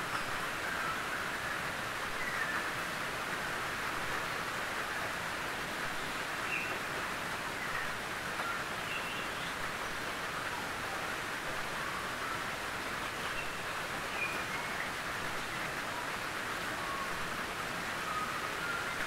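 Gentle rain on a tin roof: a steady, even patter of many small drops on the metal sheeting, with scattered faint brief higher sounds through it.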